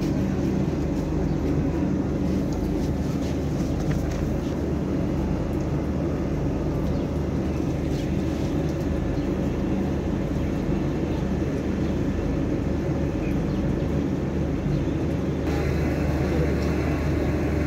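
Passenger train running, heard from an open door of one of its coaches: a steady mix of wheel noise on the rails and wind, over a low hum. Near the end a higher sound joins in.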